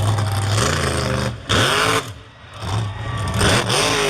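Monster truck engine revving hard in bursts. The pitch drops as the throttle closes about two seconds in, then climbs again as it reopens.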